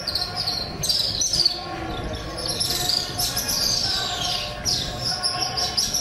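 A flock of small birds chirping and twittering together: dense, overlapping high-pitched calls, many of them sliding down in pitch.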